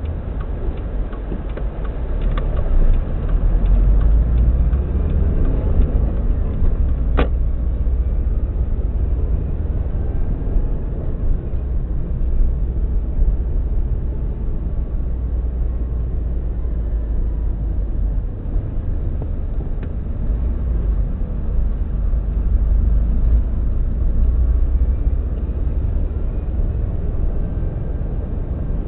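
Subaru EJ205 turbocharged flat-four engine running steadily with a misfire on cylinder 3, which the owner suspects comes from a cracked valve. There is one sharp click about seven seconds in.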